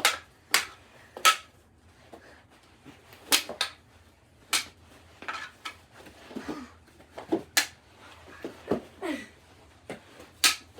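Mini knee-hockey sticks and ball knocking during play: a string of sharp clacks and taps at irregular intervals, with a few short falling squeaks between them.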